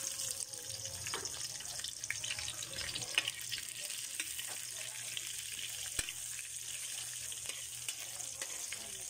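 Garlic, onion and bell pepper sizzling and crackling in hot oil in a wok. A couple of sharp taps of the spatula against the metal stand out, about three and six seconds in.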